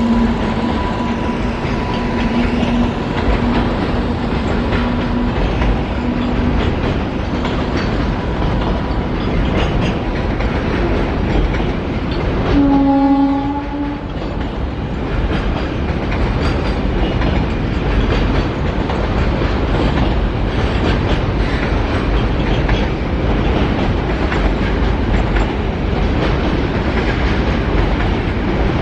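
Indian Railways train running past on the track, its wheels clattering in a continuous loud rumble. A steady horn-like tone fades out over the first several seconds, and a short horn blast about a second long sounds about halfway through.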